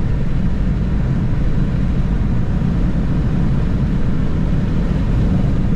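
Steady road and engine noise heard inside a moving car's cabin, an even low drone with no changes.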